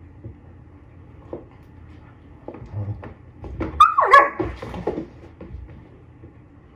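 A dog gives one short call about four seconds in, falling in pitch, among light knocks and rustling.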